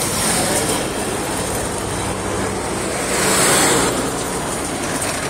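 Heavy highway traffic with truck engines running, a steady low hum under road noise, swelling louder for a moment about three seconds in.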